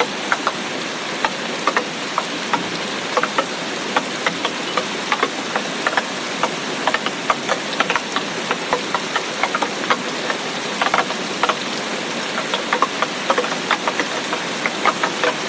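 Heavy rain falling steadily, with many close drops landing in irregular sharp taps over the constant hiss of the downpour.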